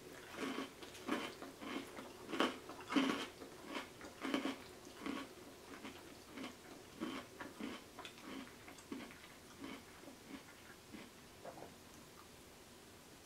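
Close-miked chewing of a creamy pasta salad: short, wet mouth sounds about two a second, louder in the first few seconds and fainter later.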